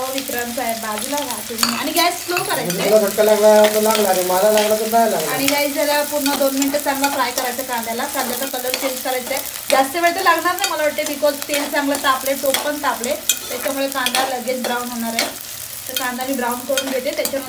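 Chopped onions and garlic frying in hot oil in an aluminium pot, with a steel spoon stirring and scraping against the pot in frequent clicks. A wavering tone runs along under it.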